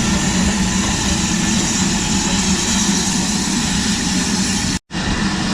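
Railway locomotive standing at the platform, running steadily with a constant hiss over a low hum. The sound is broken by a momentary dropout near the end.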